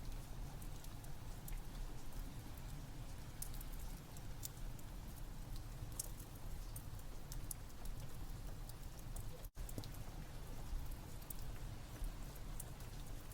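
Steady rain with a low rumble, mixed with the scattered sharp pops and crackles of a wood fire burning. The sound cuts out for an instant about two-thirds of the way through.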